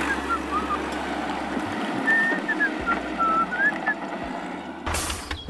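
Short bird-like chirps over a steady noisy hum, with a brief loud rush near the end before the sound cuts off.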